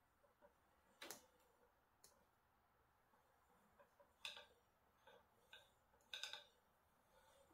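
Near silence broken by scattered faint clicks and light taps of small hard objects being handled, about six of them, the strongest about a second in and around six seconds in.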